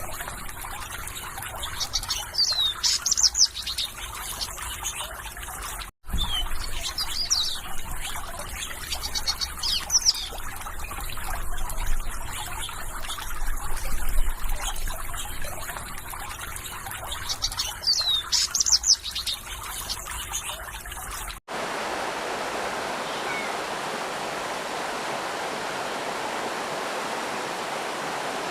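Water trickling with small birds chirping, in repeated short runs of quick sweeping notes. About three-quarters of the way through it cuts abruptly to the steady even rush of a waterfall or stream with no birds.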